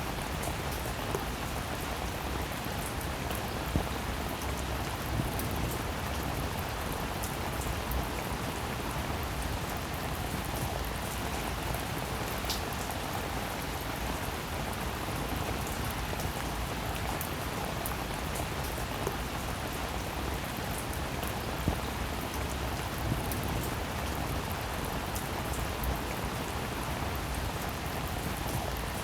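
Steady rain falling, with individual drops ticking sharply close by every so often.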